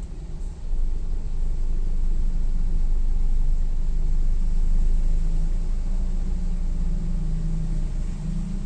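Low, steady rumble of a moving vehicle: engine drone with road and wind noise, growing louder about a second in.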